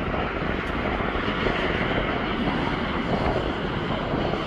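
Jet airliner engines running, a steady rushing noise without a clear tone.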